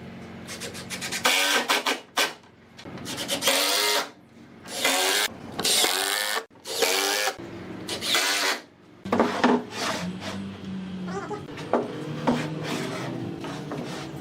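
A woodworking tool working on wood in a series of loud strokes, each half a second to a second long with short gaps between them, followed by a rougher, steadier stretch of tool noise.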